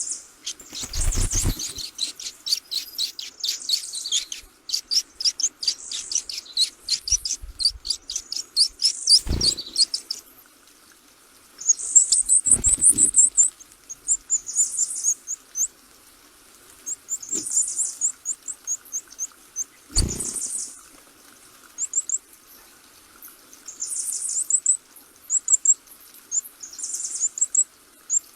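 Small birds chirping in rapid series of short, high-pitched notes that come in bouts, with a few dull thumps in between.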